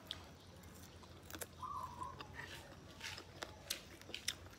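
Close-up chewing of small dried anchovies (bulad bolinao) with rice, with scattered crisp crunches.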